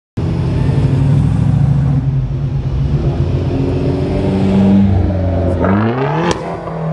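Lowered Hyundai Genesis Coupe driving past, its engine running at a steady note, then revved hard near the end, the pitch climbing quickly to a sharp peak and then dropping off.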